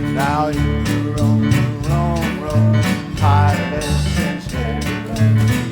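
Live gospel-bluegrass band playing an instrumental passage: strummed acoustic guitar over a stepping bass line, with a lead line sliding between notes above.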